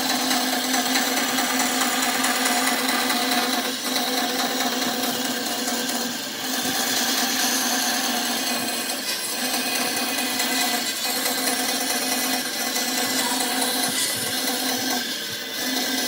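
Wood lathe running steadily while a turning tool cuts the spinning wood. The noise dips briefly several times.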